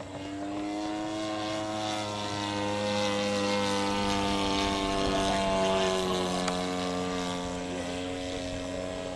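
Radio-controlled scale model airplane's piston engine flying past, growing louder to a peak about five to six seconds in, then easing off as its pitch drops slightly.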